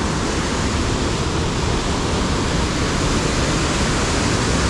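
Steady rushing of river water pouring over waterfall rapids, a loud, even roar with no let-up.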